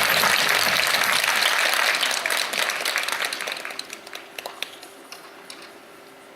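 Audience applauding, the dense clapping thinning after about two seconds into a few scattered claps and dying away.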